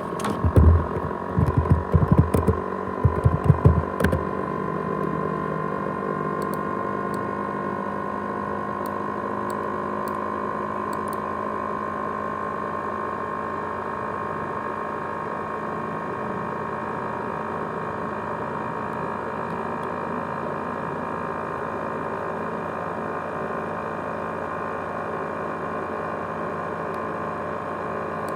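ASUS X543UA laptop running with a steady whirring hum and a high whine, the noise likened to a jet engine. For the first four seconds irregular low knocking and rattling sounds over it.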